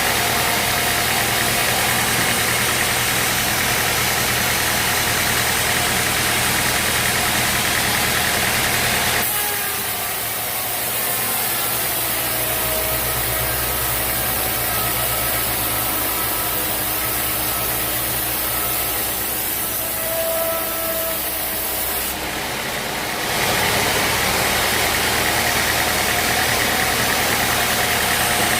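Sawmill engine running steadily. About nine seconds in the sound changes abruptly to a quieter, deeper engine hum with a few faint steady tones, then switches back to the first sound about fourteen seconds later.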